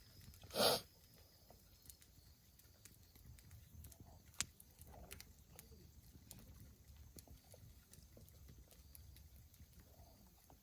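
Wood fire crackling quietly in a fire pit, with scattered small snaps. A brief loud noise comes about half a second in, and a single sharp crack about four seconds in.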